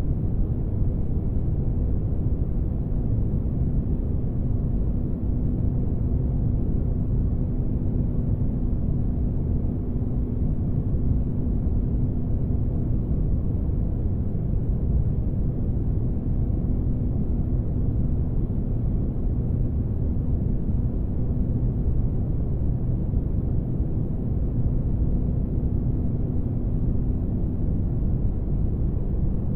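Spaceship-ambience noise for sleep: a steady, even low rumble with a faint steady hum over it. The hum fades about halfway through.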